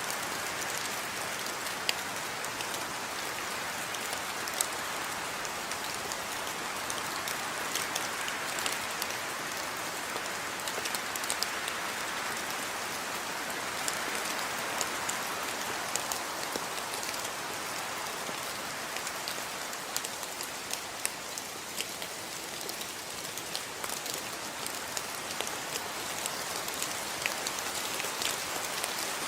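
Steady rain falling, with a constant hiss and many distinct drops pattering on a surface.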